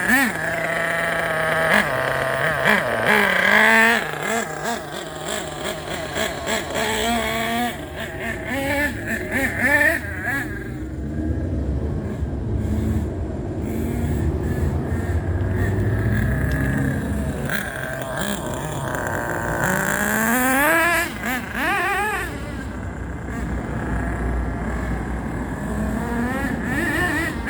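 Small .28 glow (nitro) model engine in a Thunder Tiger S2 radio-control boat running, its pitch repeatedly rising and falling as it is revved up and down, with one sharp rev about two-thirds of the way through.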